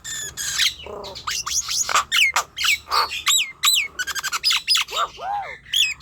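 Nias hill myna calling: a rapid run of loud, sharp whistles, squawks and quick falling glides, with a fast chattering series about four seconds in and a few lower arching notes just after.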